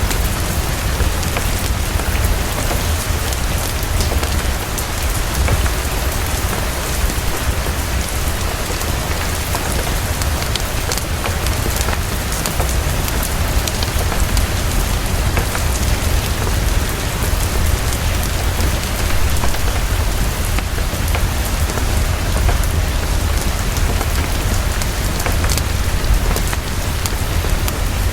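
Heavy, steady rainfall with a constant low rumble underneath and many small pops and clicks mixed in, the soft crackle of a fireplace blended with the rain.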